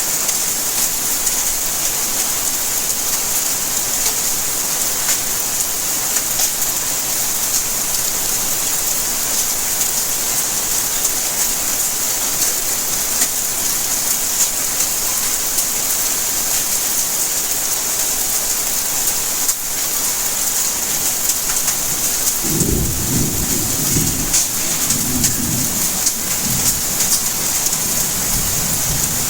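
Steady rainfall with a bright hiss. About three-quarters of the way in, a low rumble of distant thunder rolls in with several swells and fades near the end.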